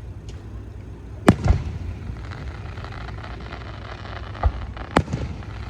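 Aerial fireworks bursting: a sharp bang followed quickly by a second about a second in, then crackling, a duller thump a little past the middle, and another sharp bang with crackling near the end.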